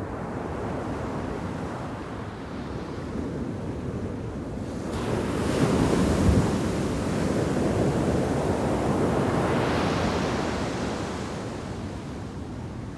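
Shore-break waves crashing on a sand beach. A wave breaks suddenly about five seconds in, the loudest moment, and its rushing wash carries on for several seconds before fading.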